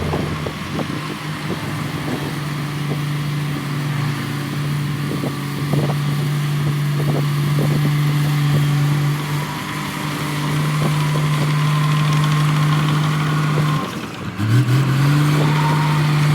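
Diesel engine of a heavy earthmoving machine running steadily, with scattered knocks. Near the end the engine speed drops briefly and then climbs back up.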